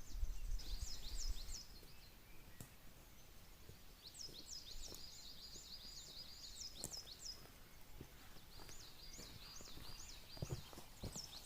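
A small bird singing three phrases of quick, high, repeated swooping notes against a quiet outdoor background. A low rumble sounds in the first second or so, and a few faint knocks come near the end.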